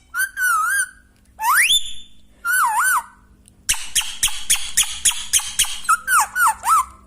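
Parrot whistling: a warbling whistle, a sharply rising whistle and another warble, then a fast chattering run of short calls for about two seconds, and more warbling whistles near the end.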